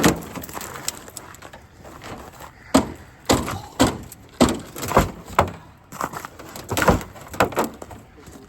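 Repeated heavy blows on the metal door and body of a second-generation Ram pickup being smashed: one sharp bang at the start, then a string of separate bangs about two a second from near the three-second mark.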